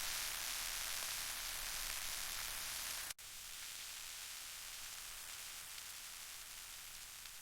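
Steady high-pitched hiss that drops abruptly to a quieter level about three seconds in.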